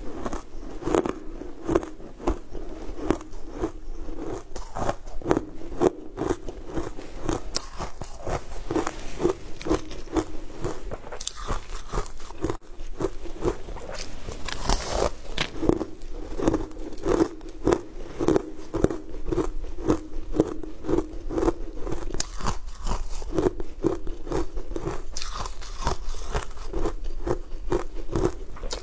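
Close-up eating sounds: a person biting into and chewing crumbly, crunchy food, with crackly crunches over a steady rhythm of about two chews a second.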